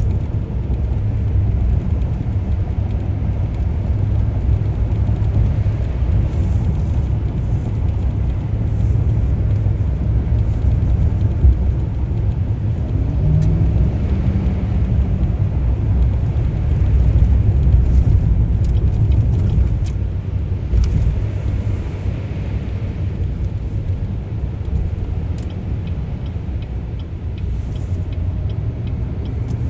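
A car being driven, with a steady low rumble of road and engine noise and a brief knock about eleven seconds in.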